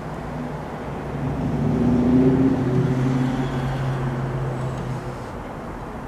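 Rumble and low hum of an approaching electric commuter train heard from a distance, swelling about two seconds in and then easing off.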